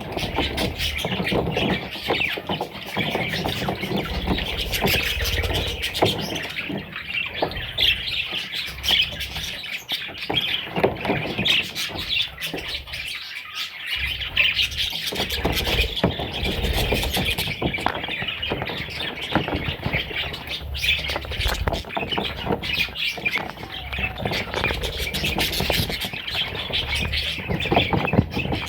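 Parrot chicks, most likely budgerigar chicks, chirping and squawking almost without pause in a dense, raspy chorus. A low rumble with thumps runs underneath.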